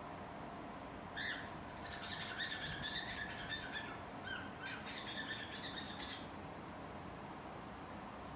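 Cockatiel singing: a short call about a second in, then two runs of rapid chirping chatter, each one to two seconds long, with a brief call in the pause between them.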